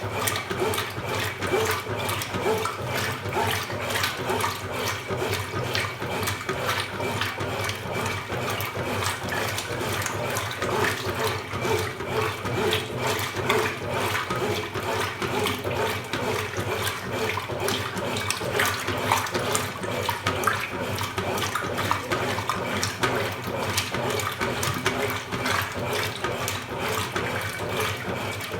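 Water sloshing and splashing in the tub of a Consul Super Cargo 8 kg top-loading washing machine, a steady choppy churn.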